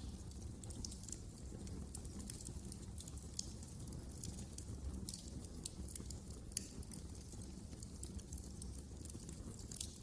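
Wood fire crackling in a fireplace: frequent irregular pops and snaps over a low, steady rumble of the burning fire.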